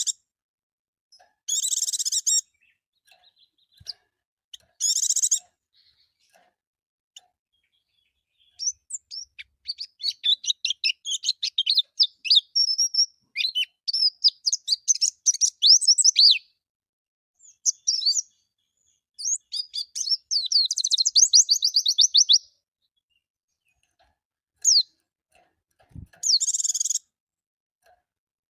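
White-eye (pleci) song: a long run of rapid, high chirps and twitters, ending in a fast trill. Short, harsh, hissing calls come before it and again near the end.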